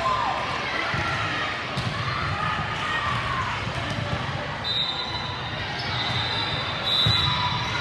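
Indoor volleyball game sounds: shoes squeaking on the court floor and voices around the court, with a ball hit about seven seconds in.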